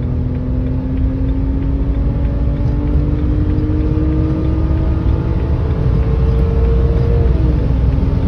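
BMW car engine accelerating hard at full throttle from about 50 toward 100 mph, its note climbing steadily in pitch over heavy road rumble. Near the end the pitch drops sharply as the transmission upshifts.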